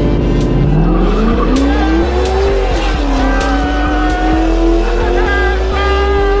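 A dirt bike engine accelerating hard through the gears. The pitch climbs, drops at an upshift about two and a half seconds in, climbs again, and drops at a second shift at the end.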